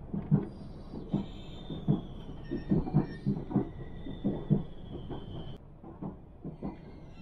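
Regional train running, heard from inside the carriage: a steady rumble with the wheels knocking over rail joints in irregular clusters. A thin high wheel squeal comes in about a second in and stops sharply about two seconds before the end.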